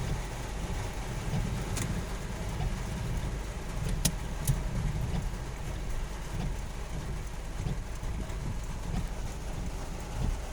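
Car driving in heavy rain: a steady low rumble of engine and road noise, with a few sharp ticks about two and four seconds in.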